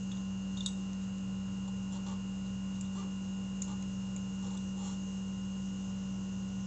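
Steady electrical hum with a few faint, light clicks and taps of a front brake pad being worked out of the motorcycle's brake caliper.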